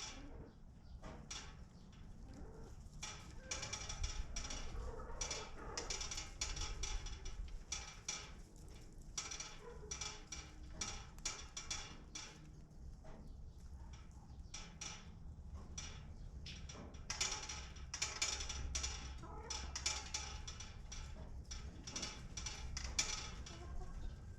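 Chickens in a coop: irregular clicking and scratching, busiest in a few clusters, with a few faint short clucks.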